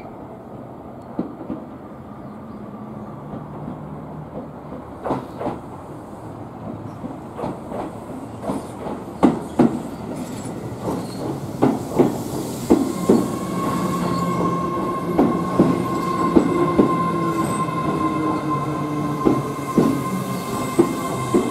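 Keio 7000 series electric train pulling in alongside the platform, getting louder as it comes near, its wheels clacking over rail joints in irregular knocks. About two-thirds of the way through a steady high squeal sets in and holds to the end.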